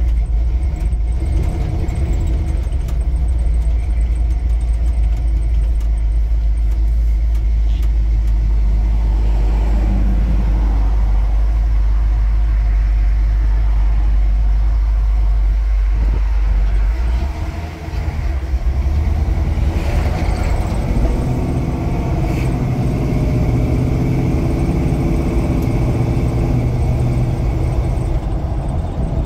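1979 Ford Bronco's Cleveland V8 running, heard from inside the cab: a deep, steady drone while the truck rolls out at low speed, then, after a brief dip about 17 seconds in, the engine pulls harder as it picks up speed on the road.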